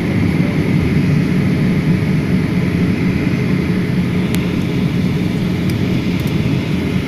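Airliner's jet engines at takeoff power, heard from inside the cabin during the takeoff roll: a loud, steady rumble with a higher hum on top. Two faint ticks come about four and six seconds in.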